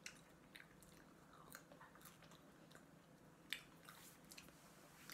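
Faint chewing of a mouthful of food, with scattered small mouth clicks; one click about three and a half seconds in is sharper than the rest.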